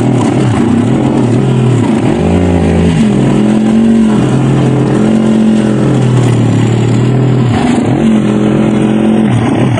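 Dirt bike engine running loud, its pitch rising and falling repeatedly as the throttle is opened and closed, held fairly steady for a couple of seconds in the middle.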